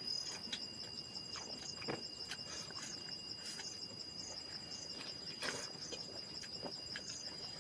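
Insects, crickets or similar, trilling in a steady high-pitched chorus with a fast pulsing beat. Occasional short soft clicks and rustles sound over it.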